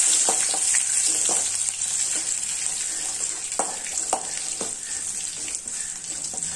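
Crushed garlic, curry leaves and green chillies sizzling in hot oil in a kadai, with a spoon scraping and clicking against the pan as it stirs. The sizzle eases off slowly.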